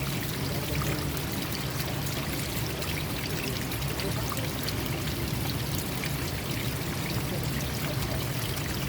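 Forest stream water flowing steadily, with scattered bird chirps over it.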